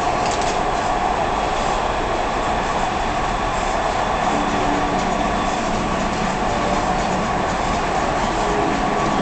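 Dubai Metro train running, heard from inside the carriage: a steady, even running noise with a constant hum, and a few faint short tones partway through and near the end.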